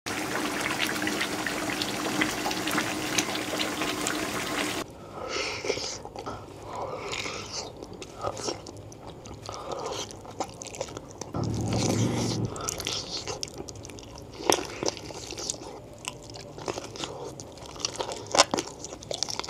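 Red chilli gulai sauce with beef-foot tendon bubbling in a pan, a dense steady crackle for about the first five seconds, cut off abruptly. Then close-miked wet biting and chewing of soft, fatty beef-foot tendon, with scattered squishy clicks and smacks.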